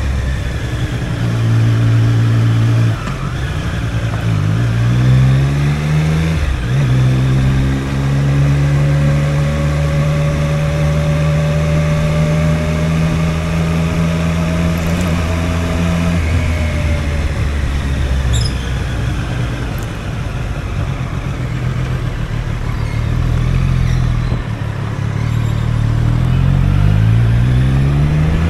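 Triumph Street Triple's inline three-cylinder engine and exhaust, heard from the rider's seat, pulling at low revs. It rises in pitch as the bike speeds up about four seconds in and again near the end, with a steady cruise between.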